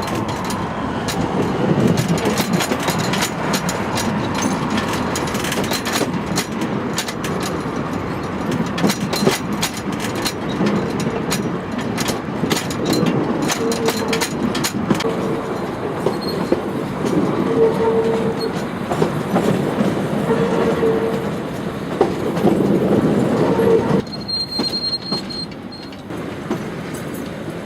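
Railway carriage running along the track: a steady rumble and rattle with wheels clicking over the rail joints. In the second half there are several short wheel squeals, and the noise eases off about 24 seconds in.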